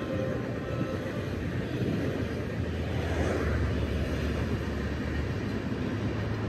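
Passenger train coaches rolling past at speed: a steady rumble of wheels on the rails.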